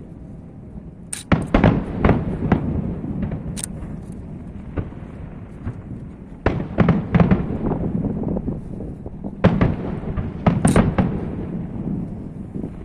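Aerial fireworks bursting: irregular clusters of sharp booms and cracks, about a second in, around seven seconds, around ten seconds and again near the end, over a continuous low rumble between the bursts.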